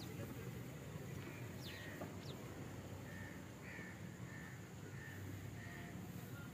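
Birds calling: two quick falling whistles about two seconds in, then a run of short repeated calls, over a steady low background rumble.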